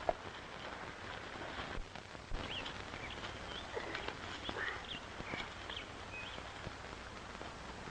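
Horses shifting, with soft hoof knocks and footsteps, while birds chirp in short high calls through the middle. All of it sits under the steady hiss of an old optical film soundtrack.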